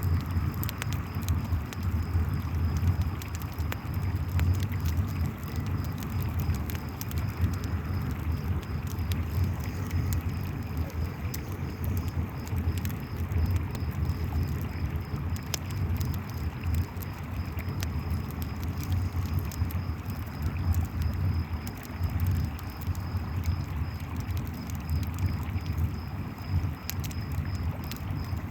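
A river running with a steady low rush, campfire flames crackling with scattered sharp pops, and crickets chirping in a steady, pulsing high trill, all layered together.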